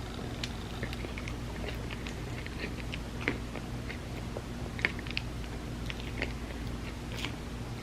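Close-miked chewing and biting of an ice cream sandwich: soft, wet mouth clicks throughout, with two sharper bites about three and five seconds in. A steady low hum runs underneath.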